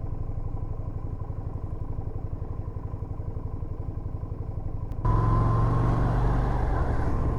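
Yamaha SRV250's V-twin engine running with an even low pulse. About five seconds in it turns abruptly louder. A faint steady high whine runs along with it, which the rider puts down to his rev counter, slightly broken and whining in cold weather.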